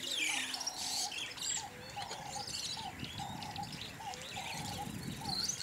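Outdoor ambience of wild birds chirping and calling, several at once, with one short call repeated about three times a second.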